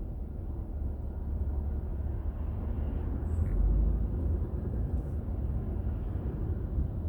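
Low, steady rumble of a car driving along a road, road and engine noise picked up by a dashcam, swelling to its loudest a little past halfway.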